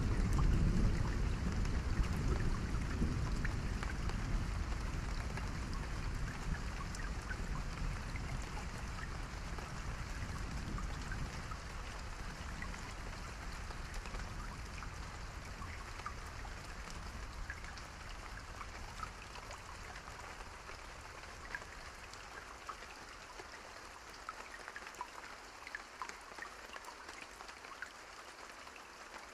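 Steady rain with scattered sharp ticks of drops, under a deep thunder rumble that dies away slowly over the first twenty seconds or so.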